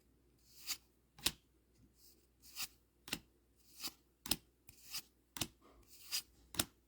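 Trading cards from a Dragon Ball Z booster pack being flipped through one after another by hand, a soft sliding swish followed by a sharp card snap, repeating roughly once a second.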